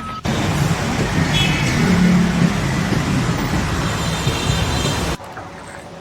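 A heavy engine running loudly, with a dense rumbling noise that stops abruptly about five seconds in.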